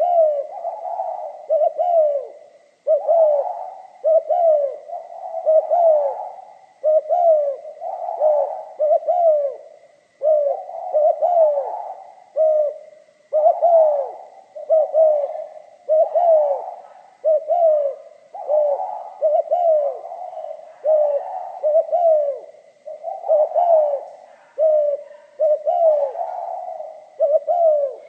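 Spotted dove cooing, one phrase of coos after another with short gaps between. The voice is of the type keepers call 'giọng pha kim', a mixed, metallic-toned song.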